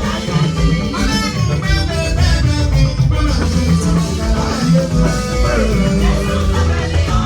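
Band music led by guitar.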